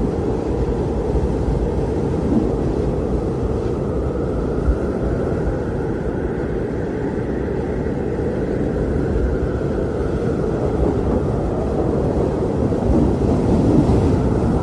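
Blizzard wind: a steady, low, rushing noise of storm wind that swells slightly near the end.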